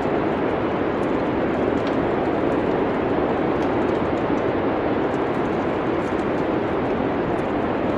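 Steady rushing, wind-like winter ambience with light crackles from a wood fire scattered through it.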